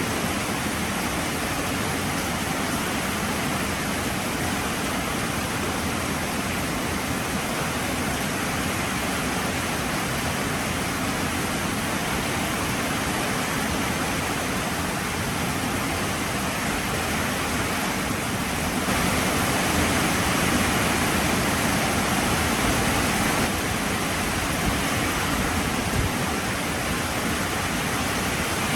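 Heavy rain falling steadily, growing a little heavier for a few seconds about two-thirds of the way through.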